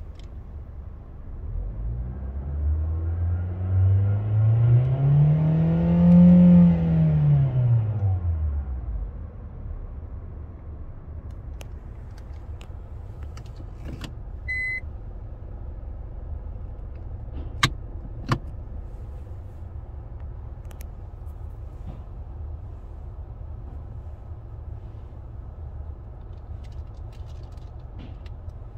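Hyundai Avante AD engine revved once while parked, the pitch rising and then falling back over several seconds before settling to a steady idle. Later there is a short electronic beep, then two sharp clicks.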